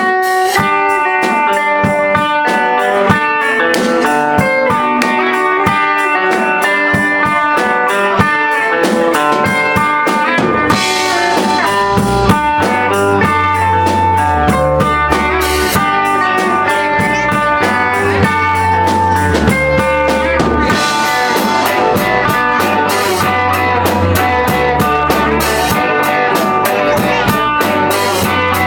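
Live band playing an instrumental passage with no singing: electric guitar over a drum kit, with a low bass line coming in about twelve seconds in.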